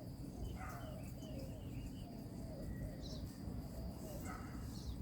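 Faint bird calls: a run of short, repeated low notes with a few higher chirps, over a low steady outdoor rumble.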